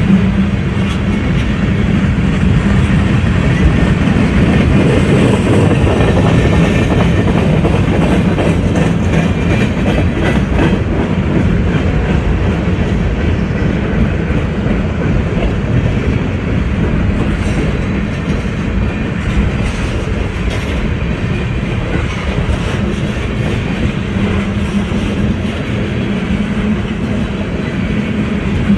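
A train passing close by, its cars rolling along the rails in a steady rumble with rapid wheel clicks over the rail joints.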